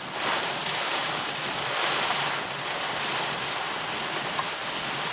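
Heavy wind-driven thunderstorm rain pelting a car, heard from inside the cabin: a steady rushing that swells and eases with the gusts, with a few scattered drop ticks.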